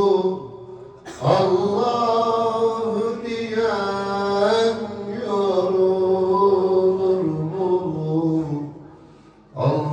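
Male voice singing a Turkish Sufi hymn (ilahi) in long, held, melismatic lines that waver and bend in pitch. The singing breaks off briefly about half a second in and again near the end, before a new phrase.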